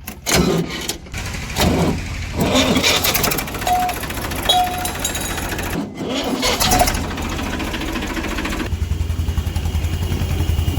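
Diesel engine of heavy farm machinery working, with clatter and knocks and a few short pitched notes. Abrupt jumps in the sound suggest edits, and near the end it settles into a steady low pulsing run.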